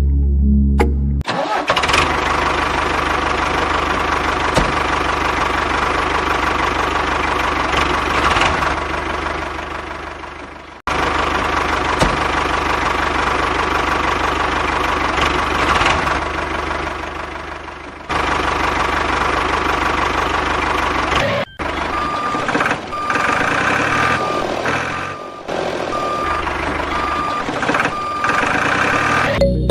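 A DIY mini tractor's small motor running steadily with a high whine, in several spliced clips that cut off abruptly and restart. In the last part a short high tone repeats, like a beep.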